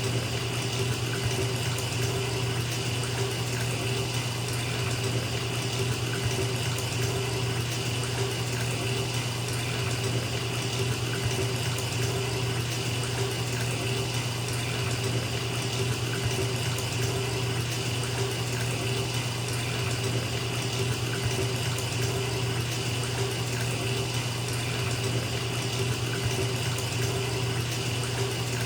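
Bathtub filling from a running tap: water pouring steadily into the tub, with a deep, even rush and no change in flow.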